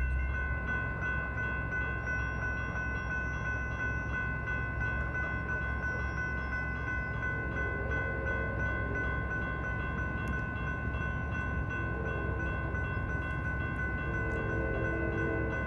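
A train rumbling steadily past a railroad grade crossing while the crossing's warning bell rings on, a steady ringing tone over the rumble. Fainter tones come and go in the second half.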